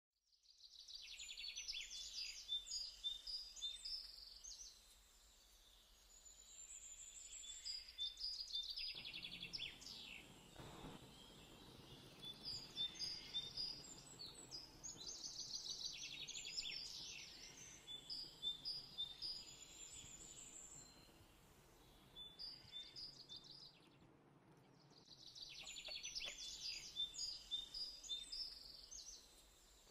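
Birds chirping and singing in repeated high phrases a few seconds long, with short lulls between.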